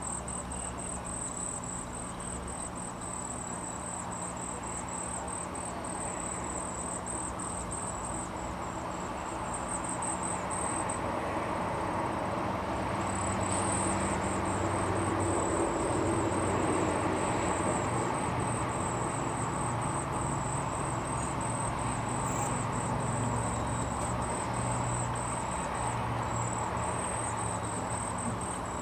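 An insect trilling: a steady, very high-pitched pulsing buzz that pauses for a couple of seconds near the middle. Beneath it runs a low rumble with a hum, swelling and fading through the middle.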